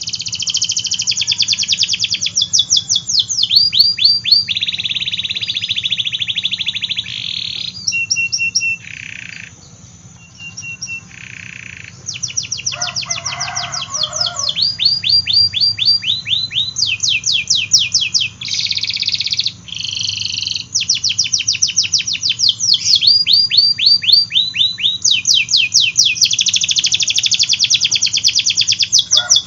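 Domestic canary singing a long song of fast trills, each a rapid run of repeated high notes, switching to a new phrase every second or two. There is a brief lull of sparser, shorter notes about eight to twelve seconds in.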